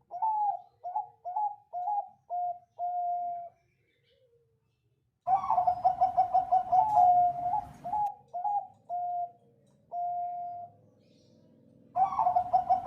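Zebra dove (Bangkok perkutut) singing: phrases of quick rolling coos, each ending in one longer held coo. There are three phrases, starting at the outset, about five seconds in and near the end. The last two have low background noise under them.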